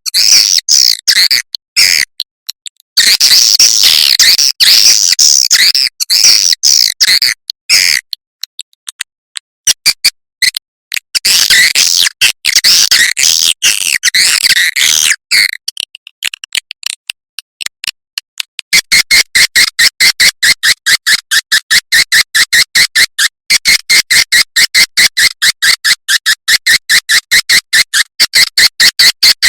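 Edible-nest swiftlet calls from a swiftlet-house lure track: dense, high twittering chirps with short gaps, then, from about two-thirds of the way in, a fast, evenly spaced run of short chirps repeating several times a second.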